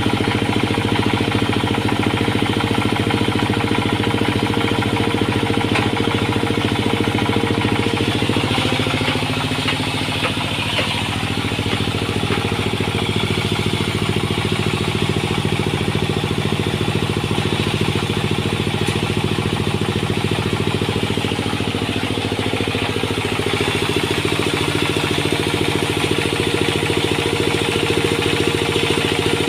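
Sawmill engine running steadily. Its pitch dips slightly about nine seconds in and comes back up late on.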